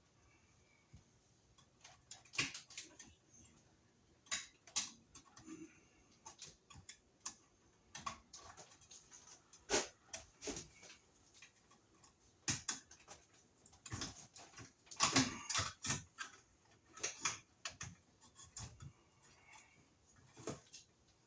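Irregular clicks, taps and rustles of hand work on electrical wiring and a wall box, with sharp sounds coming unevenly and in small clusters.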